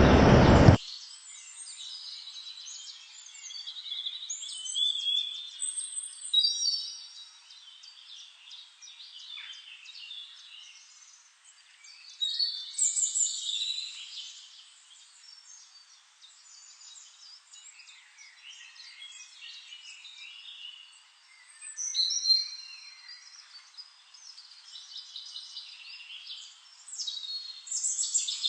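Several songbirds chirping and trilling in bursts, with short quiet gaps between. A louder full-range sound cuts off suddenly under a second in.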